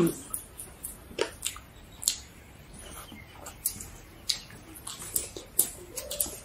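Mouth sounds of people eating rice and curry by hand: irregular wet smacks and chewing clicks, a few every second.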